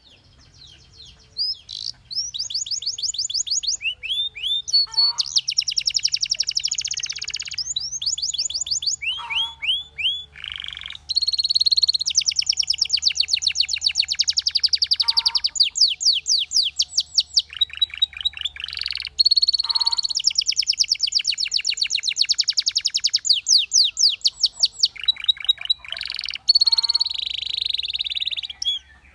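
Belgian canary singing a long song of fast trills: rapid runs of repeated notes in rolling phrases that change speed and pitch, with short breaks between phrases. The song starts about a second and a half in and stops just before the end.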